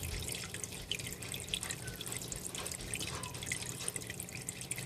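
Water dripping and trickling in many small, irregular drops over a steady low hum.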